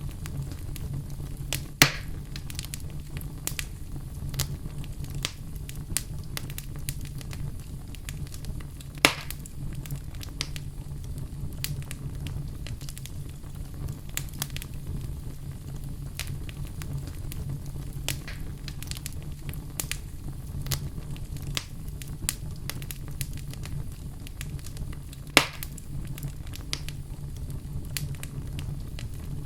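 Fireplace fire crackling: a steady low rumble of flames with frequent small crackles, and three louder pops, about two seconds in, about nine seconds in and near the end.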